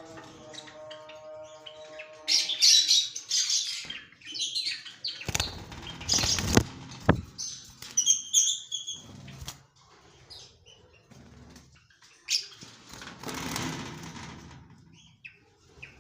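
Lovebirds fluttering their wings in a few short bursts, with high chirps between them.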